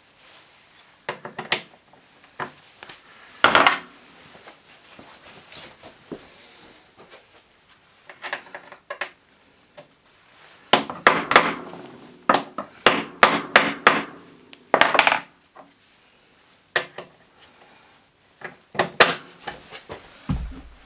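Hand tools and metal parts knocking and clinking as the ATV is worked on: irregular sharp knocks, with a quick run of them about halfway through.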